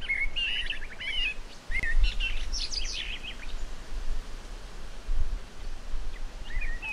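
Songbirds singing in quick chirping phrases through the first few seconds, then again near the end, over a steady low background rumble.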